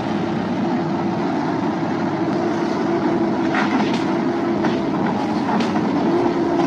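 Heavy vehicle engine running steadily under load with a constant drone, and a few short knocks or clanks scattered through.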